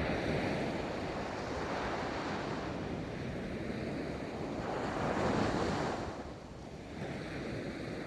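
Ocean waves breaking and washing up a beach: a wave crashes right at the start, the surf rolls on, swells again about five seconds in, eases briefly and builds with the next wave near the end. Some wind noise on the microphone.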